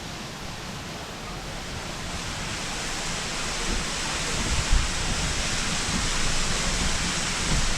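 Steady rushing noise that grows gradually louder, with an irregular low rumble underneath.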